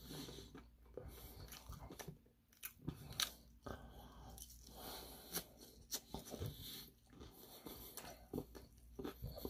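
Close-miked chewing and biting into crispy Korean fried chicken, with scattered small crunches and crackles.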